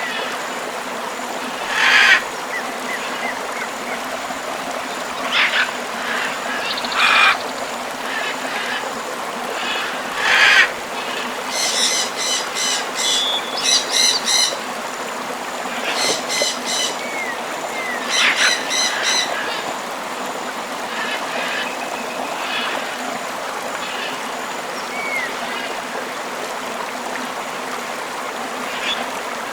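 Steady rush of a flowing river, with tropical birds calling over it: scattered squawks, short rising chirps, and runs of rapid repeated calls about halfway through.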